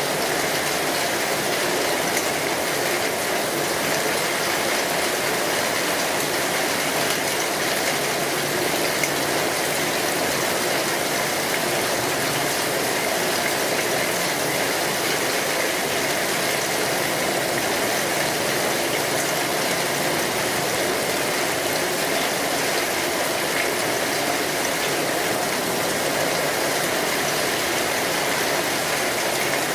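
Steady rain falling on an umbrella overhead, an even hiss without separate drops or breaks.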